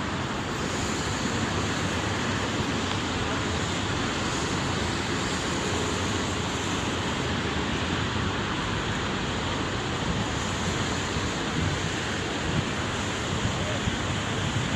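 Steady rush of sea surf and wind, with wind buffeting the microphone.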